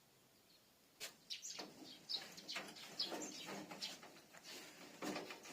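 A young azure-winged magpie giving a string of short, faint chirps, starting about a second in.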